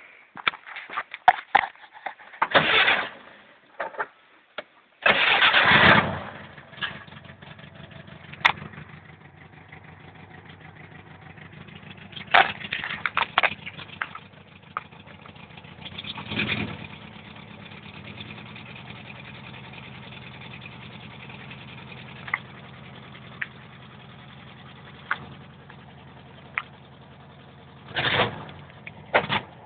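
Vehicle engine cranked and catching about five seconds in, then idling with scattered sharp knocks and a few brief louder surges. The owner reports knocking and whistling on starting, the sign of an engine fault.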